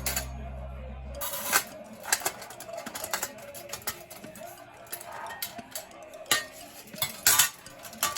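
Metal parts of a fire pit clinking and clattering as they are handled and fitted together, in irregular knocks and clicks. A steady low hum of music ends about a second in.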